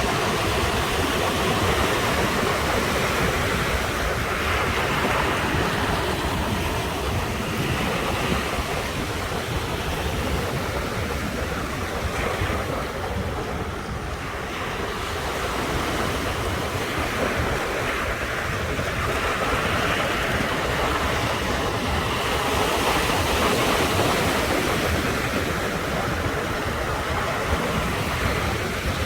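Ocean surf breaking and washing onto the shore: a continuous rushing that swells and eases every few seconds, briefly quieter about halfway through.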